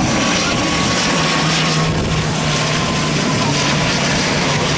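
Aircraft engines passing low on landing approach: a loud, steady noise with a faint whine that slowly falls in pitch.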